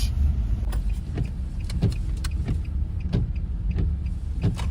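Car sound: a steady low engine and road rumble, with short knocks repeating about every two-thirds of a second.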